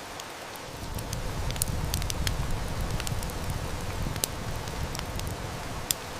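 Wood fire crackling with sharp pops and snaps over a steady hiss of heavy rain. A low rumble swells in about a second in and eases off near the end, and one loud snap comes shortly before it ends.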